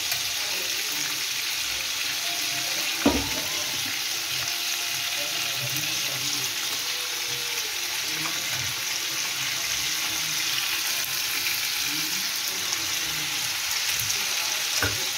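Batter-coated chicken pieces frying in hot oil in a frying pan: a steady sizzle, with a sharp knock about three seconds in and another near the end.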